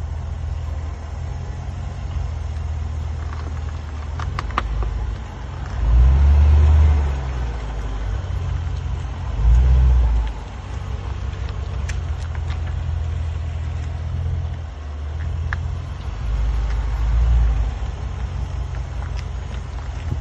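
Range Rover Sport SVR's supercharged V8 and road noise rumbling low as the car moves, swelling louder three times, with a few faint clicks. No clear brake squeal stands out.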